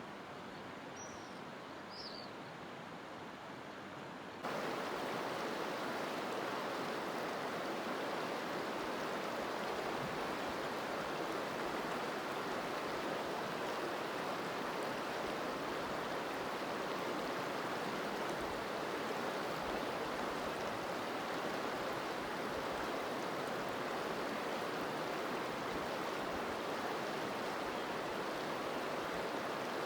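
A stream or river rushing steadily. It is fainter at first and then jumps suddenly louder about four seconds in, holding level from there on.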